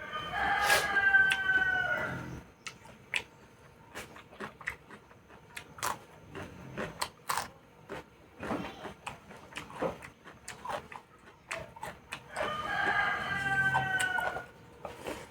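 A rooster crowing twice, each crow about two seconds long, at the start and again about twelve seconds in. Between the crows come scattered small clicks and smacks of close-up eating and chewing.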